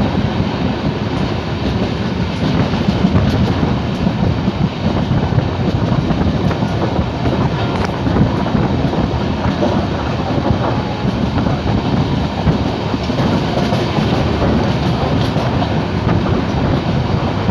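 Running noise of an Indian Railways express passenger train at speed, heard from inside a coach: a steady rumble of steel wheels on the rails with wind noise.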